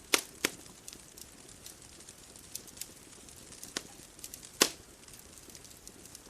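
Bonfire crackling: scattered sharp pops and small ticks, the loudest just after the start and about four and a half seconds in, over a faint steady hiss.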